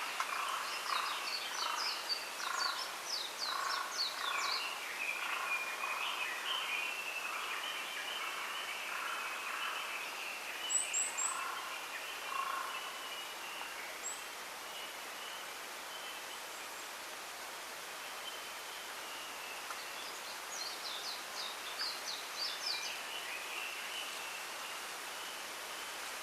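Small wild birds singing and calling over a steady background hiss: a run of repeated mid-pitched notes through the first half, and quick series of high, falling notes near the start and again about twenty seconds in.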